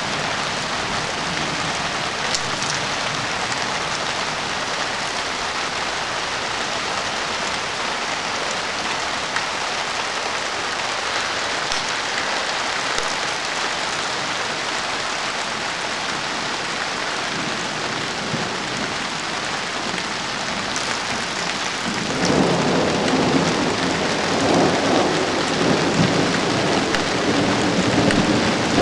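Heavy rain falling steadily in a thunderstorm. About three-quarters of the way through, a long roll of thunder rumbles in and keeps rolling under the rain.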